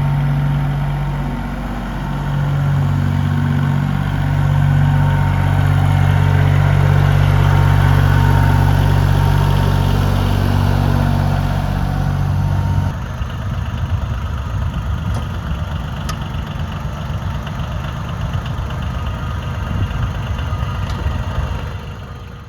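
John Deere 850 tractor's three-cylinder diesel engine running steadily. About halfway through the sound changes abruptly to a rougher, less even rumble, which fades out at the end.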